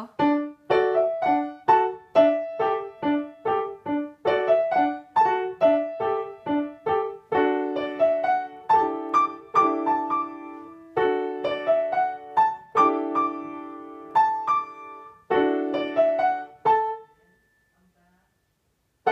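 Piano played by a child: a beginner's piece in short detached notes and light chords at a steady pace, stopping about two seconds before the end, with one more struck note at the very end.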